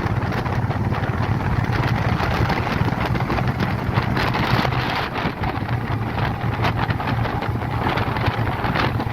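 Motorcycle riding along, its engine a steady low drone under heavy wind buffeting on the microphone.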